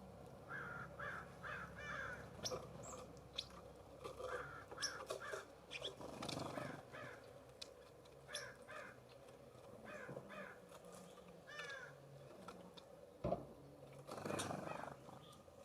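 Wild birds calling at a feeder: many short, harsh calls repeated throughout, with higher chips between them. A single sharp knock comes about thirteen seconds in.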